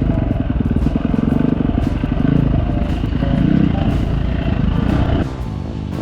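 Dirt bike engine running under throttle while riding. About five seconds in, the rider eases off and the engine note drops.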